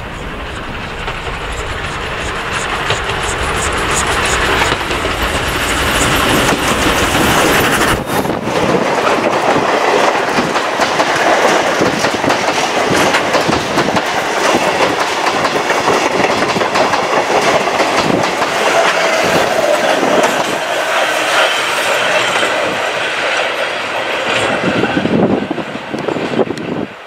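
Oigawa Railway C11 steam locomotive and its carriages passing close by. The train grows louder over the first several seconds as it approaches, the carriage wheels clack steadily over the rail joints as they go past, and the sound falls away near the end as the train moves off.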